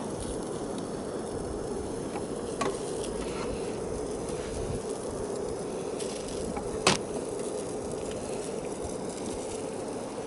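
Water boiling in a metal sierra cup: a steady bubbling hiss, at a full boil. Two short sharp clicks break in, the louder one about seven seconds in.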